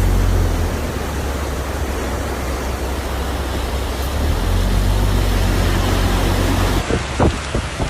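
Loud, steady rushing noise of a heavy storm downpour, with wind rumbling on the microphone. Near the end the sound changes and a few short knocks are heard.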